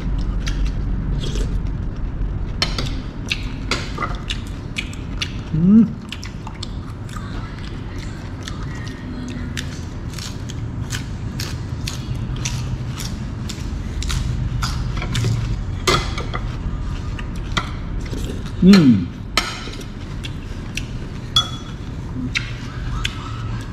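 Close-up crunching of people chewing raw fresh vegetables such as long beans and cucumber, a quick irregular run of sharp crisp clicks that thickens in the middle. Twice, about six seconds in and near nineteen seconds, a brief louder sound drops in pitch.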